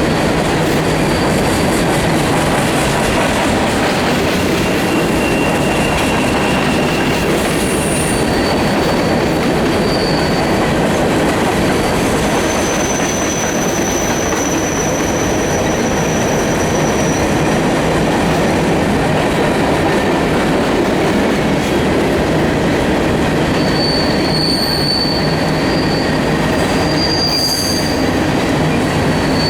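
Grain train's covered hopper cars rolling past: a loud, steady rumble of steel wheels on rail, with high-pitched wheel squeals coming and going, more of them near the end.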